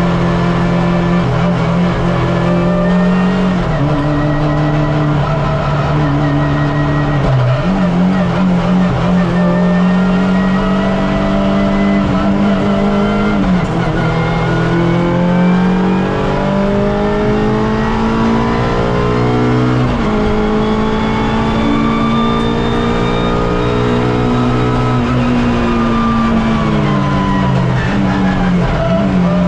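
Suzuki Swift race car's engine heard from on board, revving hard and climbing in pitch through the gears, with sharp drops at each upshift about every four to six seconds. Near the end the pitch falls away as the car slows, then climbs again.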